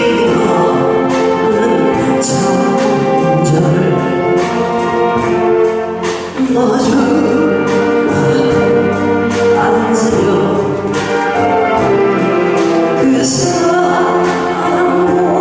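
Saxophone ensemble playing a melody in harmony, with held notes layered over one another and a brief dip between phrases about six seconds in.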